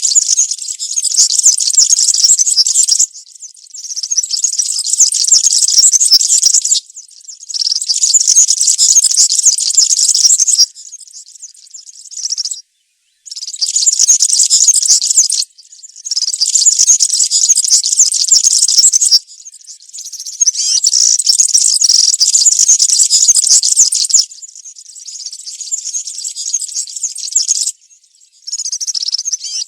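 European serin singing: fast, high-pitched jingling song phrases of about three to four seconds each, one after another, with short pauses between them.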